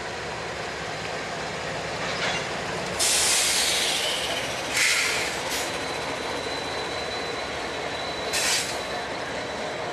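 Freight train passing close by: the rumble of the trailing diesel locomotives drops away about three seconds in, then boxcars roll past with steady wheel noise. There are several short bursts of high screeching from the wheels, the longest lasting over a second, and a thin steady squeal runs under the second half.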